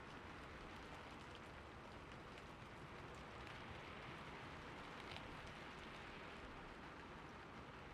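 Faint, steady patter of falling water, with small scattered drips.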